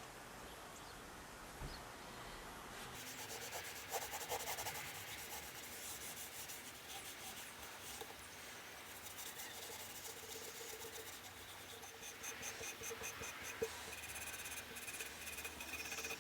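Faint hand scraping and rubbing, which starts about three seconds in as a quick run of small scratchy strokes and keeps going.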